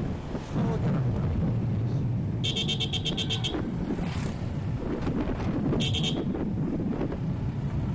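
Suzuki Gixxer 150's single-cylinder engine running under way, with wind noise on the rider's microphone. Twice a high, rapidly pulsing signal cuts through: about a second of it a couple of seconds in, then a short burst around the six-second mark.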